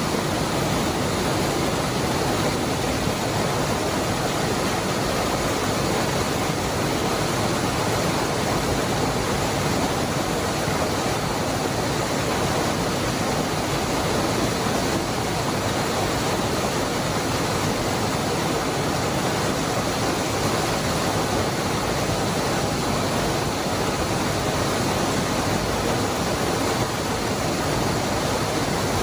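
Waterfall: the steady, unbroken rush of water falling and churning, an even noise with no change throughout.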